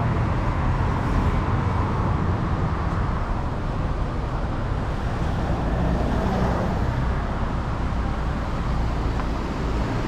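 Steady road traffic noise from vehicles on a street.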